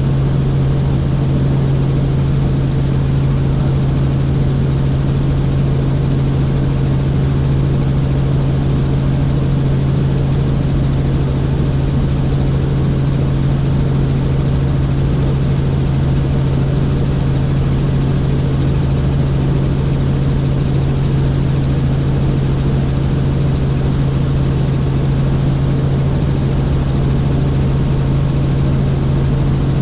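Helicopter running steadily in flight, a constant drone with a strong low hum.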